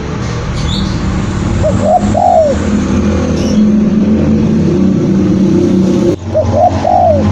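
Spotted dove cooing: two short phrases of three rising-and-falling coos, about a second and a half in and again near the end. They sound over a louder, steady, engine-like low rumble.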